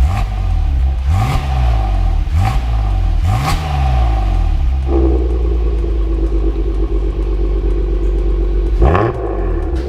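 Kia K7 3.0 V6 gasoline engine revved through a custom cat-back dual-valve exhaust: four quick throttle blips in the first four seconds, each rising and falling back, then a steadier idle-like stretch with a constant drone, and one more blip near the end.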